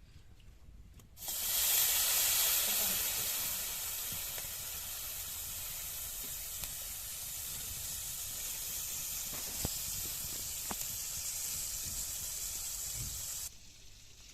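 Food sizzling in hot oil: a loud hiss starts suddenly about a second in, is loudest for the first couple of seconds, then settles to a steady sizzle and cuts off abruptly near the end.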